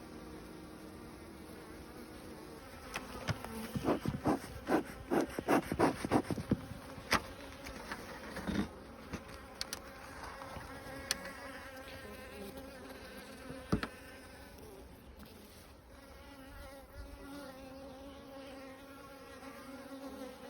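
Bees buzzing steadily. A quick run of sharp knocks or taps comes about three seconds in and lasts several seconds, and a few single knocks follow later.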